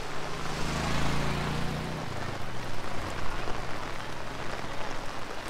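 Heavy rain falling steadily on a road and on umbrellas. A low engine hum sounds under it for the first two seconds.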